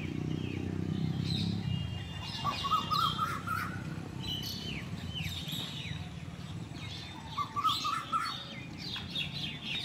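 Several birds calling in the trees: many short falling chirps, and twice a quick trilled phrase, about two and a half seconds in and again near the end, over steady low background noise.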